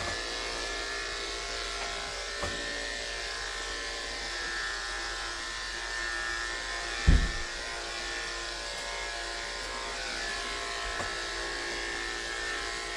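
Andis electric pet clippers running with a steady buzz while shaving matted fur off a cat. A single low thump comes about seven seconds in.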